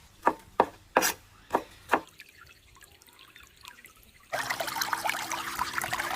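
Five sharp knocks of a knife chopping on a cutting board in the first two seconds, then water running for about two seconds near the end.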